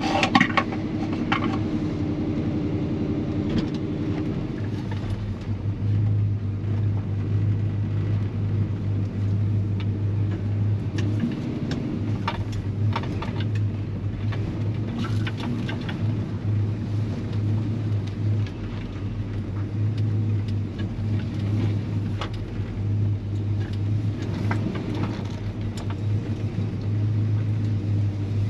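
Chevy C-10 pickup driving along, heard from inside the cab: the engine and exhaust give a steady low drone, with a higher engine note in the first few seconds before it settles lower. Occasional light clicks and rattles sit over it.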